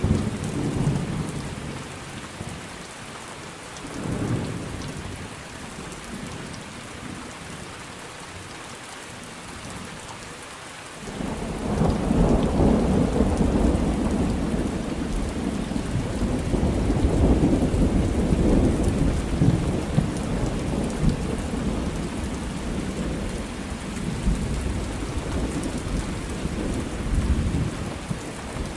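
Thunderstorm: steady rain hiss with thunder, two short low rumbles in the first few seconds, then a long, loud rumble of thunder that starts suddenly about eleven seconds in and goes on to the end.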